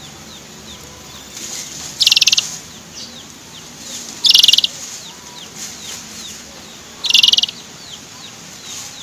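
Canary tutor recording: three short, loud, rapid buzzing trills about two to three seconds apart, with faint short falling chirps between them.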